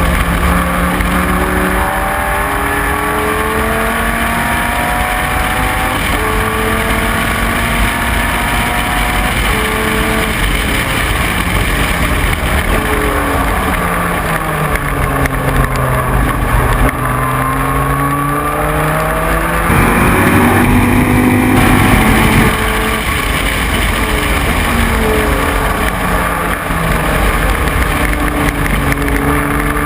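Dodge Viper GT3 race car's V10 engine at full racing pace, its pitch climbing through each gear and dropping back at every upshift. Near the middle the pitch falls away under braking and downshifts, then climbs again.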